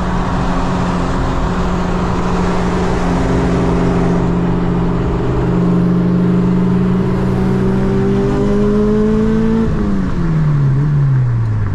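Four-cylinder engine of a modified 8th-gen Honda Civic Si with full bolt-ons, running loud and steady from inside the cabin. Its pitch creeps up a little, then falls away near the end as the car slows.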